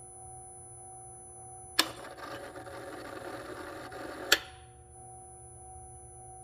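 A small power tool's motor runs for about two and a half seconds, starting and stopping with a sharp click, over a faint steady hum.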